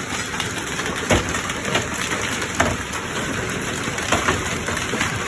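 Hail and heavy rain pouring down steadily, with a handful of sharper knocks from hailstones striking hard surfaces.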